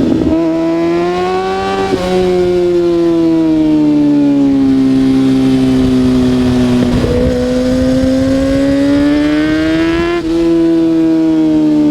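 Kawasaki ZX-6R 636's inline-four engine running hard on the road, its pitch rising and falling with engine speed. It breaks briefly about two, seven and ten seconds in, as gears change.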